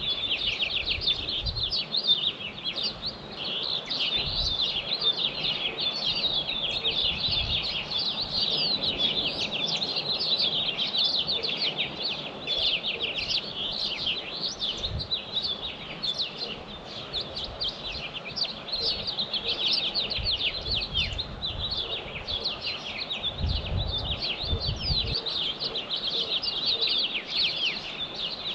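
A morning chorus of songbirds singing and chirping continuously, a dense run of rapid, high, downward-sweeping notes. A brief low rumble comes under it near the end.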